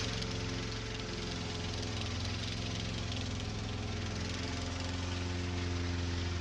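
Engine running steadily, a low hum with a fast even pulse, as recorded on a vintage sound-effects disc.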